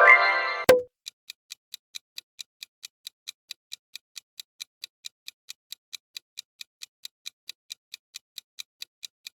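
Countdown-timer ticking sound effect, even clicks at about four to five a second. It opens with a short, loud pitched sound effect that ends in a sharp click under a second in.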